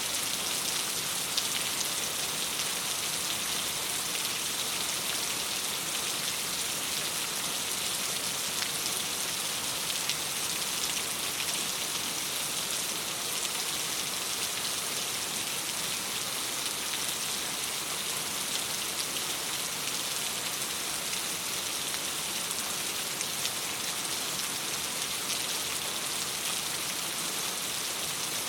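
Steady rain on a window: an even hiss of many small drops that holds the same level throughout.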